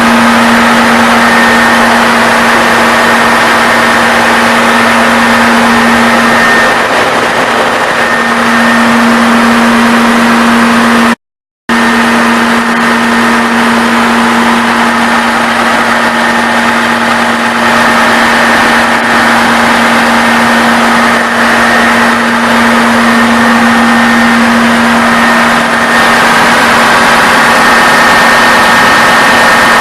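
Caterpillar 500 kW diesel generator set running steadily, with a constant hum over the engine noise. The sound cuts out for an instant about eleven seconds in, then resumes unchanged.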